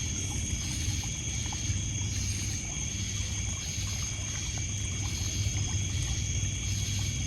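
Night ambience at a lakeshore: insects such as crickets trilling steadily, with a chirping pulse repeating a little under a second apart, over water lapping and trickling on a pebble beach. Faint scattered clicks of a crackling campfire.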